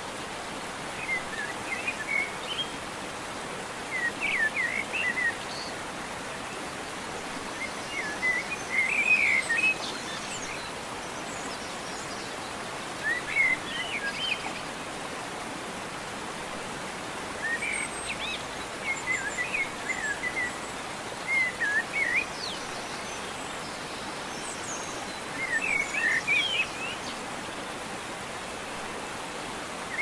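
Birds singing short chirping phrases every few seconds over a steady hiss.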